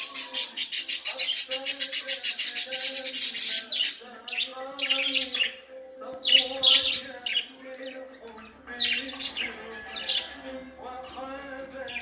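Budgerigar chattering: a fast run of rapid clicks for the first few seconds, then scattered chirps and warbling notes. Background music with held tones plays underneath.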